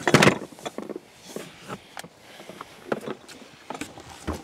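Rummaging through gear: an irregular run of knocks, scrapes and clatters as boxes and items are moved about, loudest at the start and again near the end.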